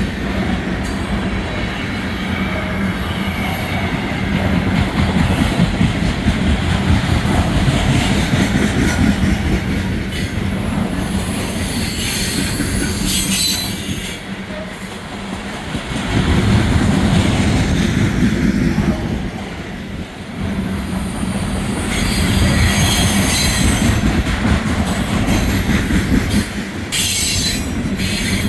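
Freight train cars rolling past at track level, a steady heavy rumble of steel wheels on rail with brief high-pitched wheel squeals now and then.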